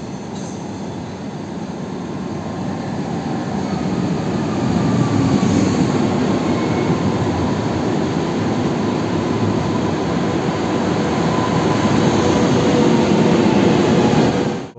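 Train running, a steady rumble that builds over the first few seconds and then holds, with a faint whine slowly drifting lower in pitch.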